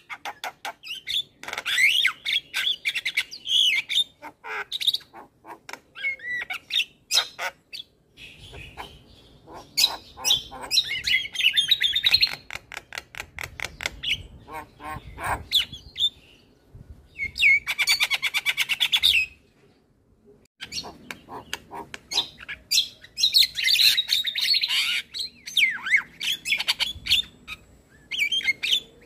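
Male Javan myna singing a varied song of chattering phrases, harsh squawks and rapid clicking rattles, in bursts with short pauses between them.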